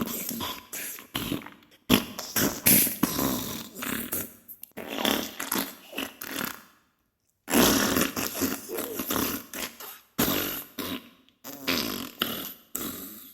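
Diarrhea sound effect: a run of wet, spluttering farts in bursts a second or more long, broken by short silences, the longest about halfway through.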